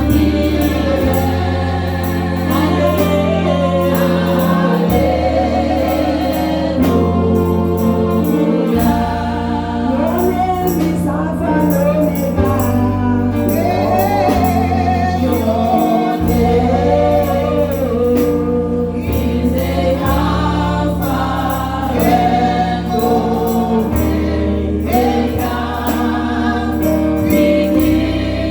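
Gospel choir singing a praise song over a band with a deep bass line that changes note every couple of seconds.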